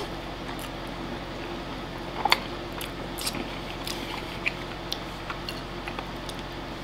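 A man chewing a mouthful of oyakodon (chicken and egg over rice) with his mouth closed. A few short clicks come through, the sharpest about two seconds in, as his chopsticks touch the bowl.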